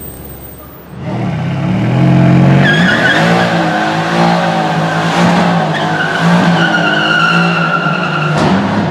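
A performance car's engine revving while its tyres squeal in a burnout, starting about a second in. There is a sharp crack near the end.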